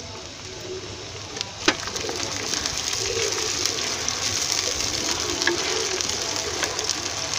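Chopped tomatoes land with a knock in hot mustard oil in a clay pot, and the oil starts sizzling and crackling loudly as they fry. A pigeon coos in the background.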